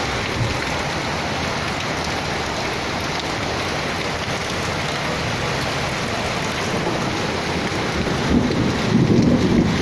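Heavy rain pouring down steadily, with a louder low rumble rising about eight seconds in.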